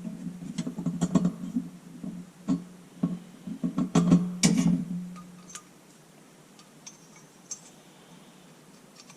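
Metal parts of an old Coleman lantern clinking and knocking as they are handled, over a low steady hum. It goes quiet after about five seconds.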